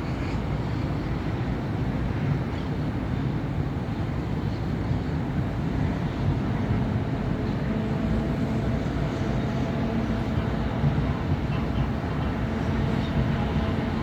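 City avenue traffic: a continuous rumble of cars and buses passing. About seven seconds in, a steady engine hum joins it and carries on.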